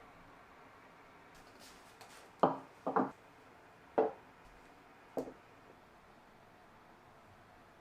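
Dishes being set down on a wooden dining table: a few short, sharp knocks over about three seconds, one of them a quick double.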